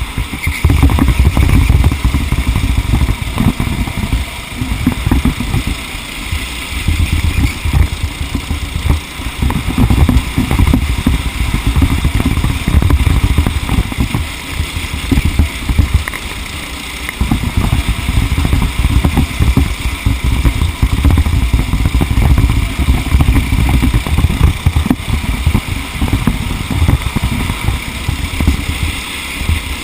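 Two-stroke TAG racing kart engine running at race speed, rising and falling in loudness as it is driven through the laps, with heavy low rumble on the microphone.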